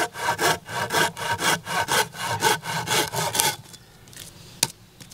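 Hand saw cutting through wood in quick back-and-forth strokes, about four a second, stopping after about three and a half seconds. A single sharp click near the end.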